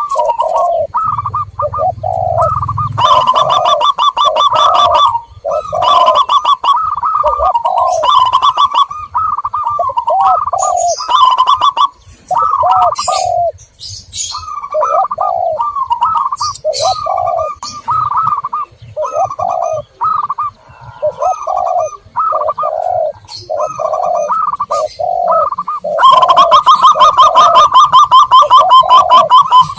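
Zebra doves and spotted doves cooing over one another in a continuous chorus, a lure recording for calling in doves. Short coos repeat without a break, with a few stretches of rapid trilled cooing and some high chirps.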